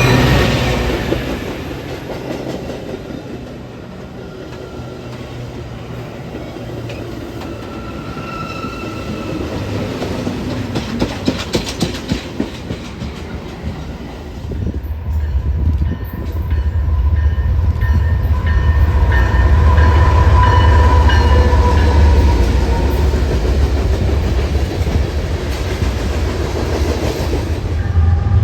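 Train passing on the railway: wheels clicking over rail joints, then a loud, steady low rumble from about halfway through that lasts to the end.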